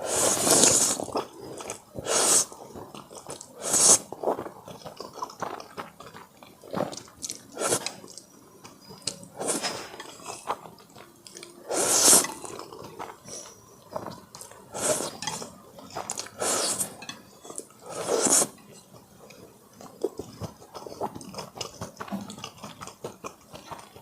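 Close-miked eating: a person chewing, with a loud bite or crunch roughly every two seconds and quieter chewing between.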